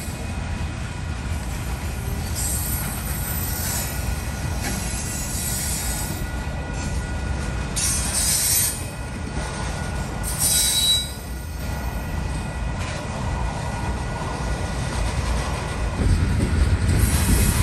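Freight train of tank cars and covered hopper cars rolling past: a steady rumble of steel wheels on the rails, with brief high-pitched wheel squeals a few times. It grows louder near the end.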